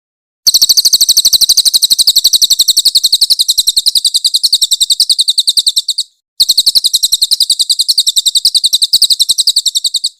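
Crested jay (cililin) giving its loud, harsh rattling call: a very rapid string of evenly repeated high notes, broken once about six seconds in, then resuming.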